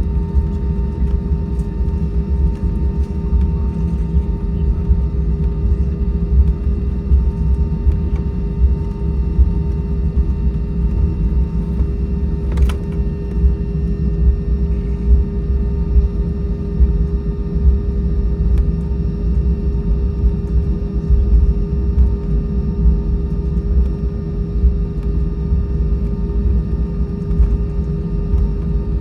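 Airbus A320-232 cabin noise on the ground: a steady rumble with a constant hum from its idling IAE V2500 engines, and a single sharp click about twelve seconds in.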